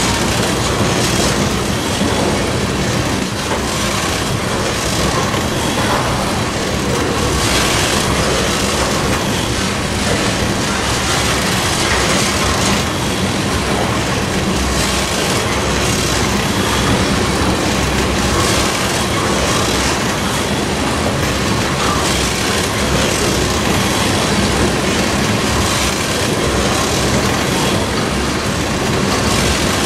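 A train's cars rolling past on the rails: a loud, steady noise of wheels running on track.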